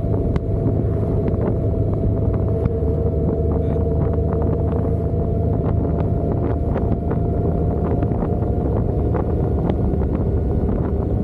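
Motorcycle running steadily at road speed, with a steady low drone, a faint steady whine and wind noise on the microphone, plus many scattered short ticks.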